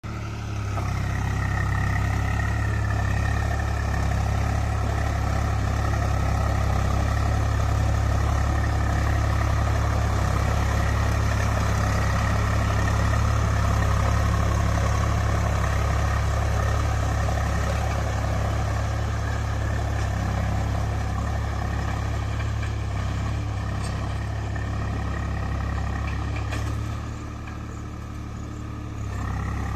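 Swaraj 735 tractor's three-cylinder diesel engine running steadily with a deep, even rumble, easing off a little near the end before picking up again.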